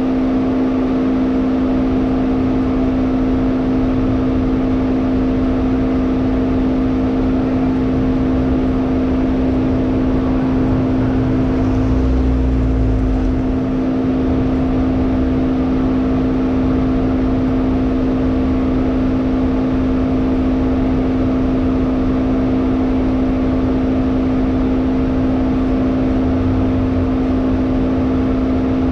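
In-cabin engine and road noise of a Hyundai Elantra N's turbocharged four-cylinder on track: a steady drone with an even pitch, and a brief low rumble about twelve seconds in.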